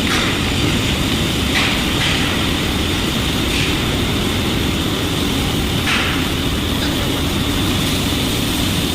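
Robotic welding: a steady rushing hiss with a low rumble underneath, and a few brief louder flares.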